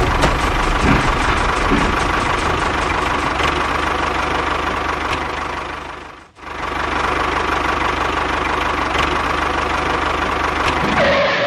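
A DIY mini tractor running steadily with a mechanical clatter. The noise fades out briefly about six seconds in, comes back, and stops abruptly near the end.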